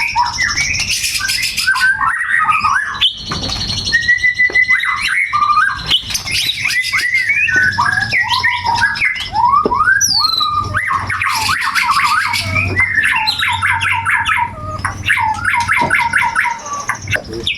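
White-rumped shama singing nonstop: a fast, varied run of sliding whistles, sharp chips and rapid rattling trills, its song filled with mimicked phrases of the grey-cheeked bulbul (cucak jenggot).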